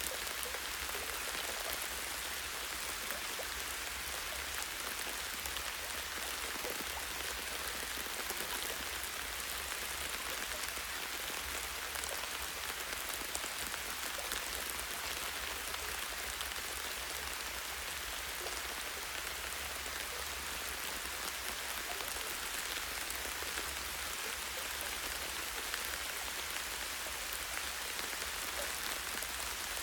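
Steady light rain, dense fine pattering of drops on leaves and a tree branch, with a constant low rumble underneath.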